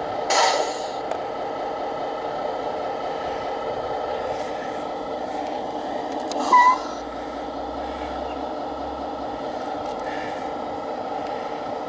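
Tamiya Scania 770S radio-controlled model truck running with a steady, engine-like hum, with a short loud burst about half a second in and a brief chirp about six and a half seconds in.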